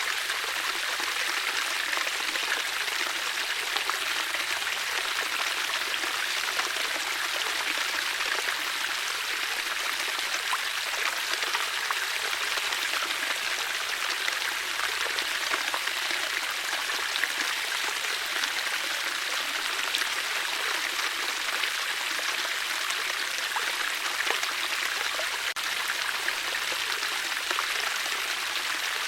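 Water flowing steadily in a stream, a constant splashing rush with small scattered droplet sounds.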